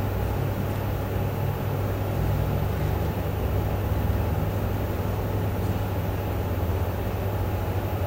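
Room tone of a large hall held silent: a steady low hum under a faint even hiss, with no voices or distinct events.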